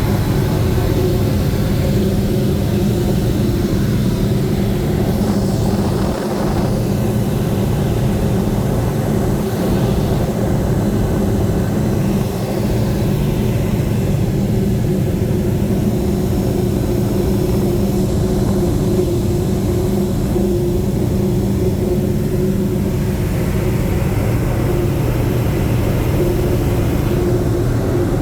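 Boeing B-29 Superfortress's four Wright R-3350 radial engines and propellers running steadily in flight: a constant, even drone with a steady low hum, heard from aboard the aircraft.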